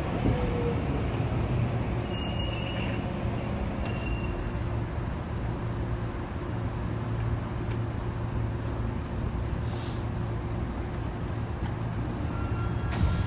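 Saitama Railway 2000 series electric train standing at a station, heard inside the car: the steady hum of its onboard equipment. There is a brief hiss about ten seconds in, and a few short tones start near the end.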